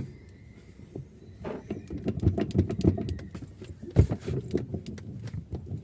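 Irregular light knocks and clatter of objects being handled, with one sharper knock about four seconds in.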